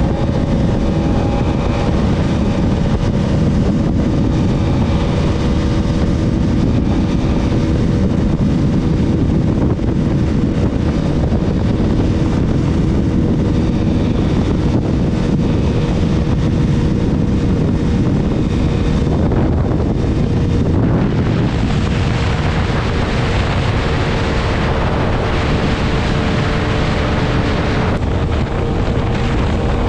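Bajaj Pulsar RS200's single-cylinder engine held at high revs near top speed, its tone nearly steady, under heavy wind rush on the microphone. The wind hiss grows louder for several seconds in the later part.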